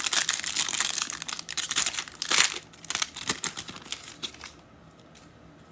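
Foil wrapper of a football trading card pack crinkling as it is torn open and the cards are pulled out, a dense crackle for about three seconds that thins to a few small ticks and dies away.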